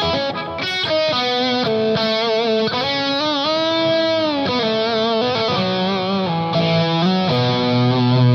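Electric guitar played through an EarthQuaker Devices Palisades V2 overdrive on its Gain B channel with the boost engaged, giving a thick, high-gain distorted tone. Sustained lead notes, one bent and wavered near the middle, give way to lower held notes near the end.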